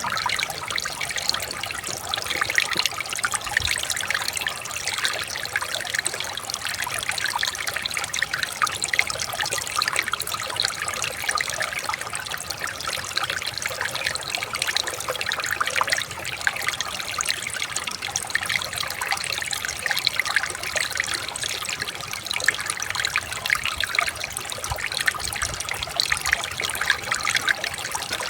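Shallow water trickling and splashing over stones, a steady bubbling flow with no pauses.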